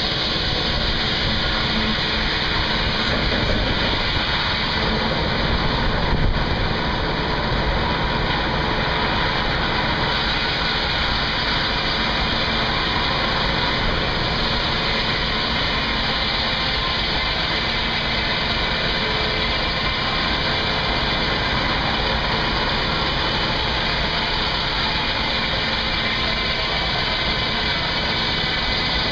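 Case steam tractor belt-driving a sawmill, the machinery running steadily, with a steady high hiss over the running noise.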